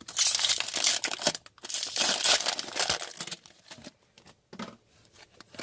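A hockey card pack wrapper crinkling and tearing as it is opened, for about three and a half seconds. After that come a few light ticks and rustles.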